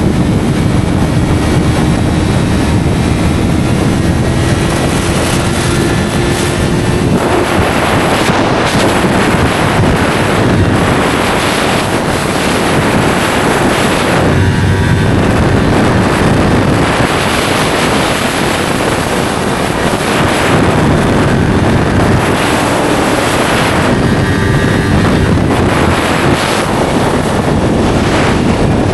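Yamaha R3 parallel-twin motorcycle engine running at speed through an SC Project slip-on exhaust, its pitch climbing steadily for the first several seconds. After that, heavy wind rush on the microphone mostly covers the engine, which still shows through now and then.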